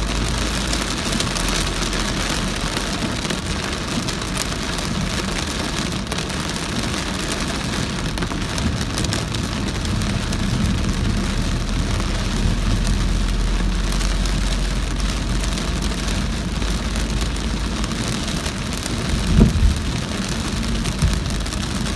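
Very heavy rain pouring steadily on a moving car, over the low rumble of the car on the road. Near the end come two brief thumps.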